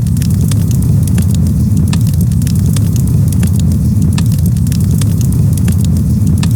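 Campfire crackling: many sharp, irregular pops and snaps over a steady low rumble.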